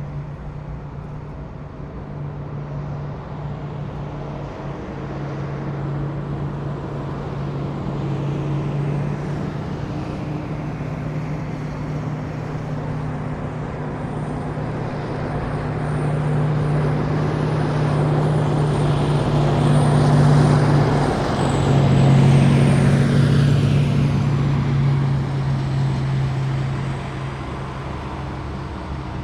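Heavy military vehicles driving past in a column, a deep steady engine hum building as they come closer, loudest about two-thirds of the way through, then fading. A faint high whine drops in pitch as the nearest vehicle goes by.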